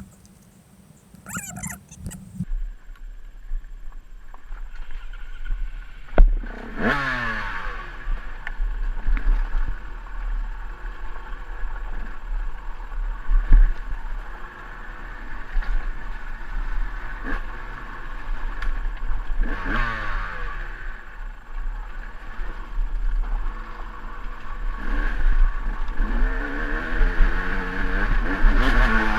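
KTM 200 EXC two-stroke dirt bike engine pulling up a steep trail climb, revving up and down repeatedly. It comes in about two seconds in, and there is a sharp knock about six seconds in.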